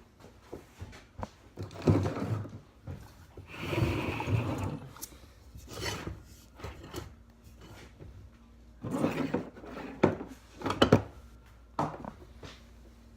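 Irregular handling noises: scattered knocks, clatter and rubbing, with a faint steady hum coming in about halfway through.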